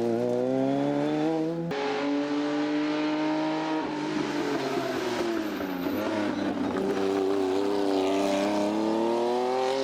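Rally car engines at full throttle on a stage: revs climb, then an abrupt switch about two seconds in to another run. The engine holds its pitch, lifts off with the revs dropping around the middle, then climbs hard again near the end.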